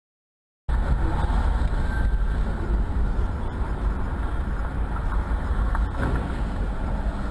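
Steady low rumble of a car on the move, engine and road noise, starting suddenly about a second in.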